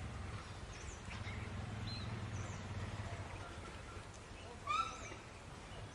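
Faint birds chirping in outdoor nature ambience over a steady low rumble, with one louder short call about three-quarters of the way through.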